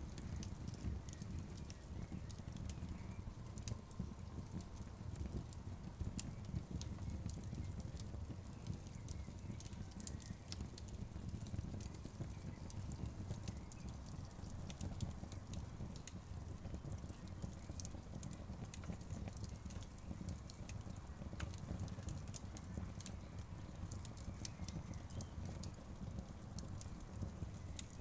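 Wood fire burning in a fireplace, the logs crackling with frequent sharp, irregular pops over a low steady rumble.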